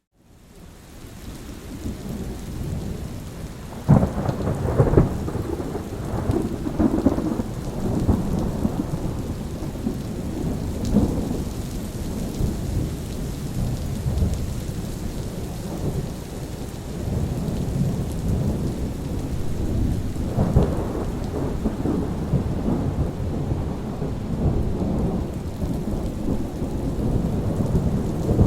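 Steady rain with thunder, fading in over the first couple of seconds. A sharp thunderclap about four seconds in rumbles on for several seconds, and another roll of thunder comes about two-thirds of the way through.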